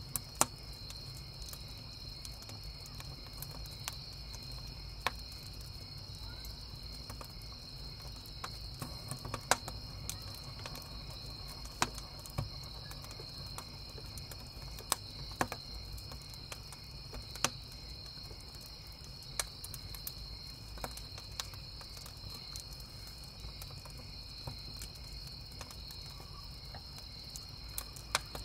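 Wood campfire crackling, with sharp irregular pops every second or so, over a steady chorus of crickets chirping and a low fire rumble.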